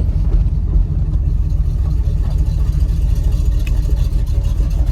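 Classic Pontiac Grand Prix's V8 engine running steadily as the car drives, a smooth, even low rumble.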